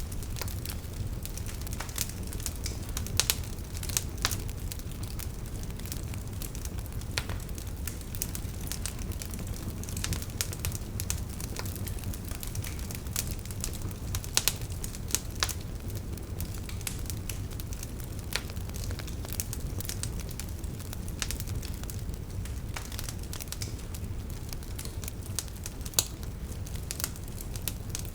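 Campfire burning, with irregular sharp crackles and pops of the wood over a steady low rumble of the flames.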